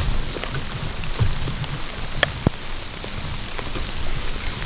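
Steady rain falling, with many separate drops striking close by as small ticks. Two sharper ticks come about halfway through.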